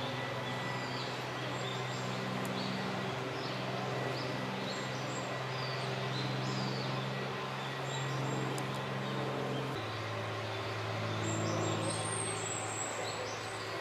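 Short high bird chirps scattered throughout, with a longer high call about twelve seconds in, over a steady low engine drone whose pitch drops a step about ten seconds in.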